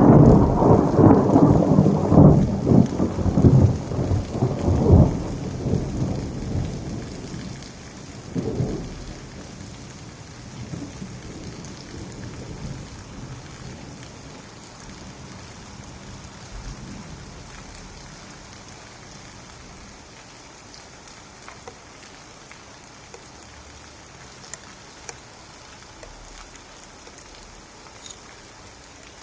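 Thunderstorm: a loud rumble of thunder dies away over the first several seconds, a shorter rumble follows about eight seconds in, then steady rain.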